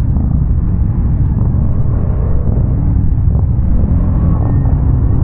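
ATV engine running steadily while riding, a dense low rumble with no breaks.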